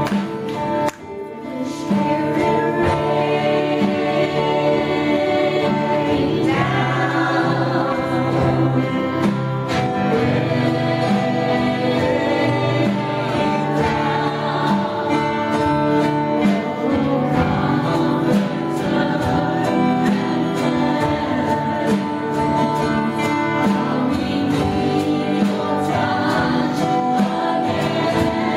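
Congregational worship music: voices singing together with instrumental accompaniment. It runs continuously, with a brief drop in level about a second in.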